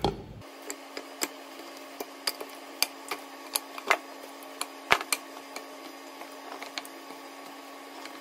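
Irregular light knocks and clunks of boiled pig trotters being packed into a metal cooking pot, bone and skin bumping against the pot and each other, the loudest about four and five seconds in. A faint steady hum runs underneath.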